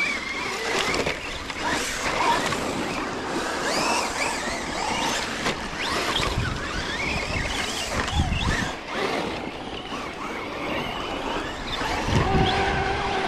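Electric motors of RC trucks whining, rising and falling in pitch as the throttle goes on and off, over tyres crunching on dirt and gravel, with a few low thumps.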